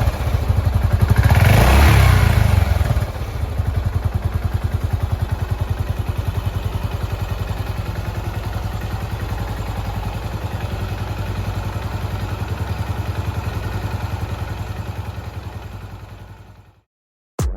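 Yamaha SR400's air-cooled single-cylinder engine blipped on the throttle, then settling to an even, steady idle about three seconds in. The idle fades out near the end.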